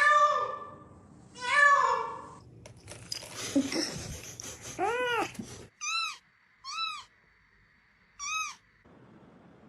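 Cats meowing: a couple of pitched meows at the start, a drawn-out rising-and-falling meow about five seconds in, then three short, alike rising-and-falling mews.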